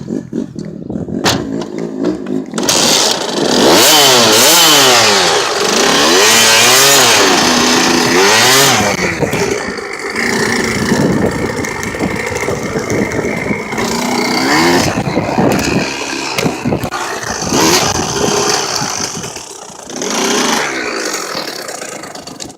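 KTM 65 two-stroke dirt bike engine catching about two and a half seconds in, after a couple of knocks. It is revved up and down repeatedly, then runs on less evenly at lower revs, dipping near the end. The bike is running poorly.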